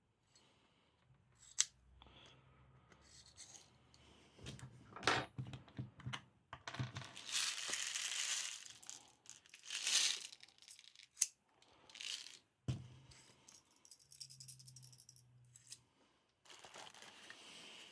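Hands handling small hard parts and packaging: scattered sharp clicks and knocks, with stretches of rustling and scraping.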